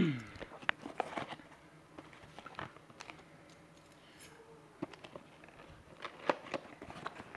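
Cardboard package being cut and opened by hand: scattered clicks, scrapes and rustles of cardboard and packing material, with a short downward-sliding squeak at the very start and a cluster of sharper clicks about six seconds in.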